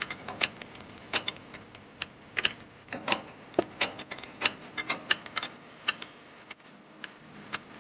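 Irregular sharp metallic clicks and taps of hand tools working on a tractor engine's fuel injector nozzle fittings.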